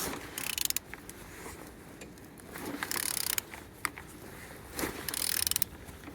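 Ratchet wrench clicking in three bursts about two seconds apart as a removed engine is turned over by hand at the crankshaft, with single ticks between. The engine turns freely and holds compression on all cylinders.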